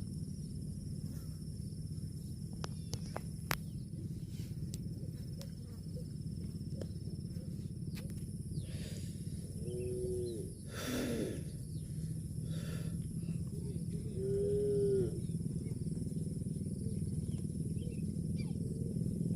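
Cattle giving two short calls, each rising then falling in pitch, about ten seconds in and again near fifteen seconds, over a steady low rumble and a faint high insect drone.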